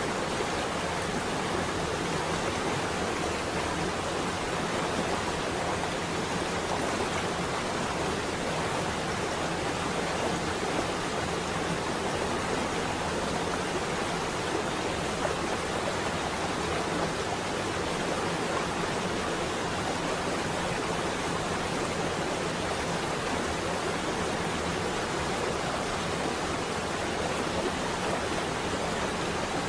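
Steady rain on a window, an even hiss with no let-up.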